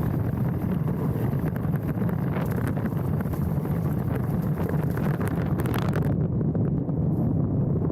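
Mountain bike riding down a dirt trail: wind rushing over a handlebar-mounted action camera's microphone, with tyre rumble and the clatter of the bike over the ground. The high hiss thins out about six seconds in.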